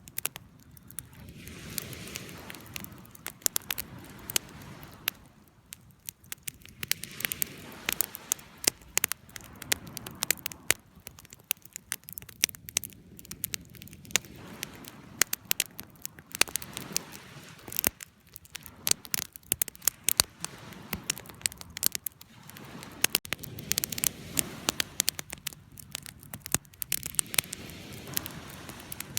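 Wood fire crackling, with frequent sharp pops and snaps over a low rush of flames that swells and fades every few seconds.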